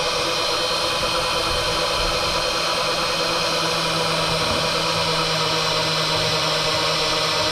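Power drill driving a winch, its motor running steadily at constant speed as it reels in the line to hoist a kayak.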